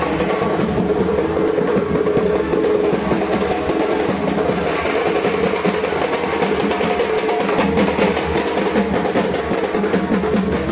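Dhak, the large two-headed barrel drum of Bengal, beaten with sticks in a fast, unbroken run of strokes, like a drum roll.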